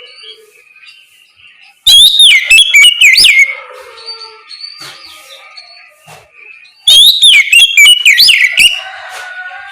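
Oriental magpie-robin (kacer) singing its loud, open song: two bursts of rapid whistled notes that sweep up and down, about five seconds apart, with fainter chirps and calls between them.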